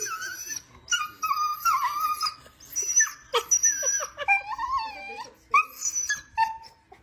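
Dog whining in a run of high, wavering cries with short breaks between them.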